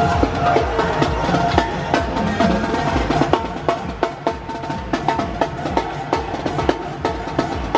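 Live drumming show: a percussion crew playing fast, dense drum and wood-block-like strikes over a backing music track.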